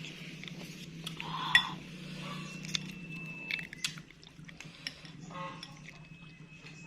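A spoon clinking against a bowl of bakso several times during eating, the loudest clink about one and a half seconds in, over a steady low hum.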